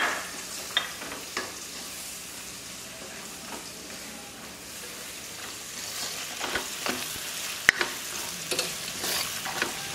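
Shallots, garlic and onion sizzling in oil with spice paste in a stainless steel wok, while a spatula stirs and scrapes against the pan. The scrapes and clacks come more often in the second half, with one sharp clack a little before eight seconds.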